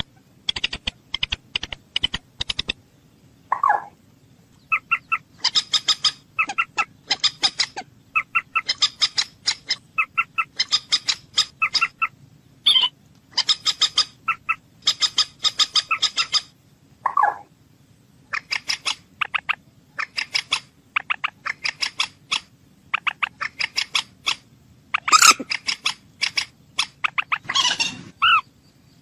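Common moorhen calling: quick bursts of short clucking notes, repeated throughout, with a couple of longer, lower calls. A few sharp clicks come at the start.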